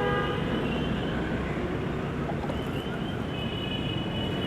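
Steady low rumble of road traffic and engines, with faint thin high tones briefly at the start and again from about three seconds in.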